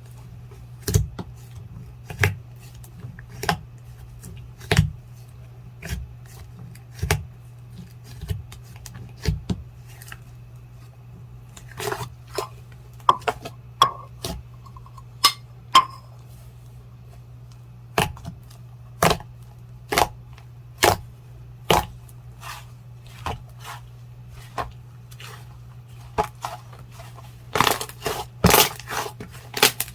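Clear jelly slime being pressed and worked by hand, giving sharp pops and clicks about once a second, thicker in a few stretches, over a steady low hum.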